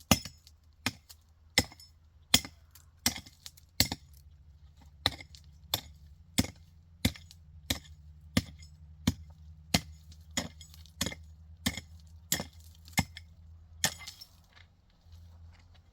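A steady series of sharp blows, about three every two seconds, as of a tool striking repeatedly, stopping about 14 seconds in.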